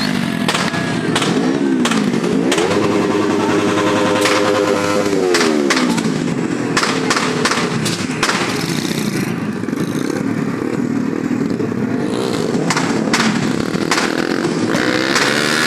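Small motorcycle engine running and revving, its pitch climbing and falling several times: once briefly near the start, then held high for a few seconds before dropping off. Frequent short clicks and knocks run through it.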